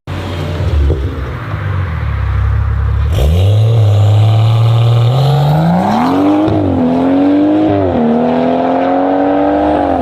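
BMW M car engine: a low rumble, then about three seconds in it pulls hard with its pitch climbing steeply. The pitch dips sharply twice before holding fairly steady near the end.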